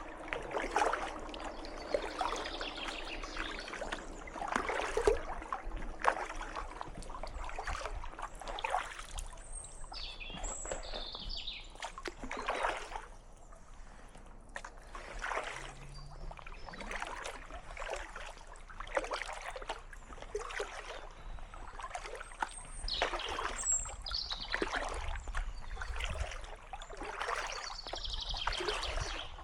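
Kayak paddle blades dipping and splashing in calm water, a stroke about every second, with the water trickling off the blades between strokes; the strokes ease off for a few seconds about halfway through.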